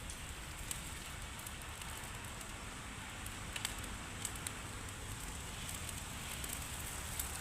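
Wood cooking fire crackling, with scattered sharp pops over a steady hiss.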